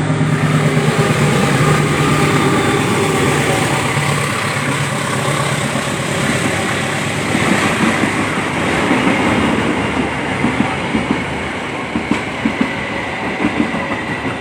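A train passing close by: a steady loud running rumble, with the wheels clacking over rail joints in the second half.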